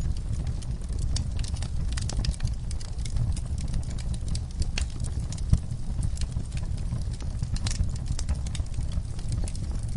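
Wood fire in an outdoor fireplace burning steadily: a low rumble of flame with many irregular crackles and pops from the burning logs, one sharper pop about five and a half seconds in.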